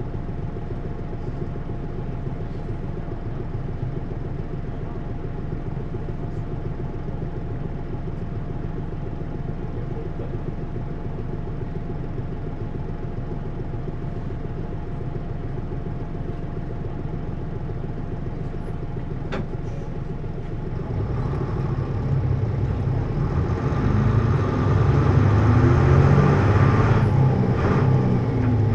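Hino U-HT2MLAA city bus engine running steadily at low revs with a thin steady whine. After about twenty seconds the whine stops and the engine grows much louder as it revs up. This bus has a tendency to abnormal noises, which the uploader likens to the sound of a sister bus near the end of its service life.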